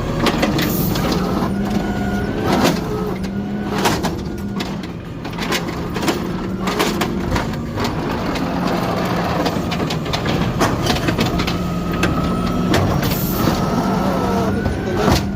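Side-loader garbage truck's automated arm picking up and emptying a trash can: engine and hydraulics running steadily with a whine that rises and falls, and a series of knocks and bangs as the can is gripped, tipped and set back.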